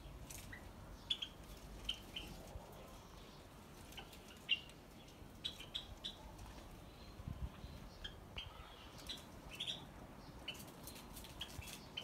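Small aviary birds giving short, faint, scattered chirps, a dozen or more separate calls spread across the whole stretch.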